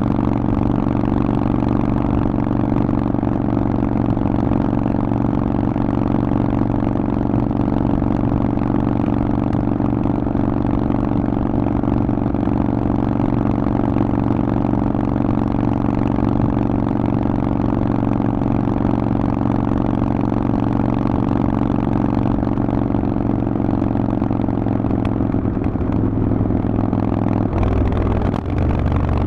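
Harley-Davidson Forty-Eight's air-cooled 1200 cc V-twin with a Vance & Hines exhaust, running at a steady speed while being ridden. The engine note changes near the end.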